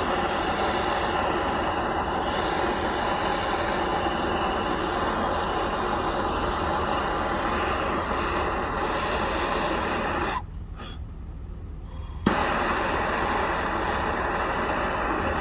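Heating torch burning steadily on a seized fifth-wheel mounting pin, heating it to break loose old grease and rust. The flame noise drops away for about two seconds after about ten seconds, then comes back on with a sharp click.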